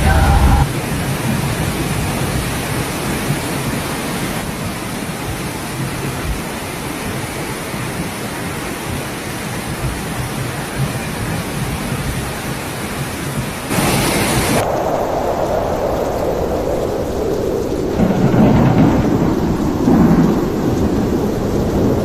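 Heavy rainstorm: a loud, steady rush of pouring rain. About fourteen seconds in it turns abruptly duller, with the hiss losing its high end.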